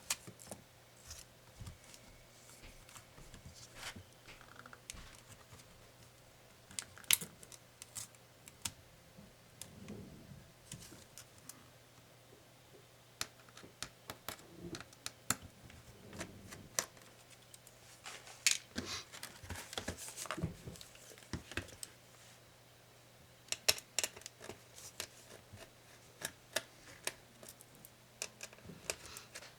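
Irregular small clicks, taps and light scrapes of hand tools and plastic and metal laptop parts being handled during disassembly, with busier clusters of clicks in several stretches over a faint steady hum.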